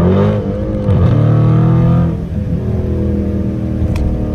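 Dodge Charger's Hemi V8 accelerating: the revs climb at the start, dip briefly about a second in, pull loudly for another second, then ease off to a steady cruising drone.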